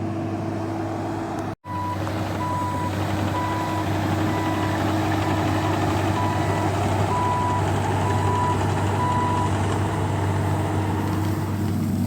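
Bobcat E26 mini excavator's diesel engine running steadily under work, with a travel alarm beeping evenly, about once every three-quarters of a second, from about two seconds in until near the ten-second mark, when it stops.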